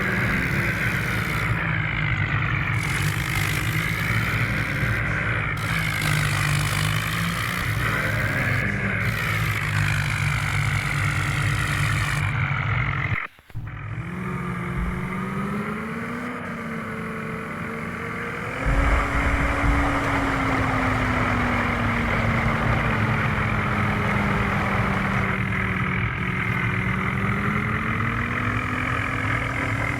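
Vehicle engine running steadily at working revs, its pitch wavering up and down, with a brief dropout about 13 seconds in and the pitch rising a little near the end.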